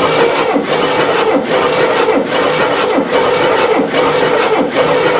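Cadillac 472 V8 cranking over on its starter without firing during a compression test, a steady starter whine with an even chugging of about three beats a second. The cylinder on the gauge comes up to 145 psi, a fair reading.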